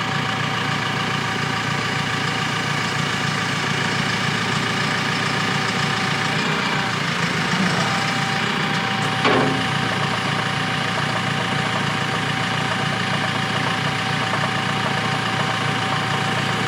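Forklift engine idling steadily, with a thin steady whine over it and a single short knock about nine seconds in.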